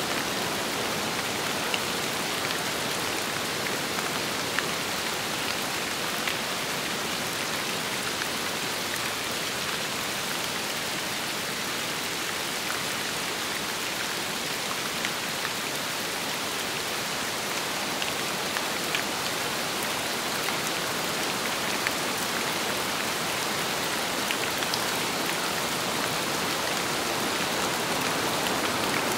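Steady rain falling with wind, an even hiss with individual drops ticking now and then.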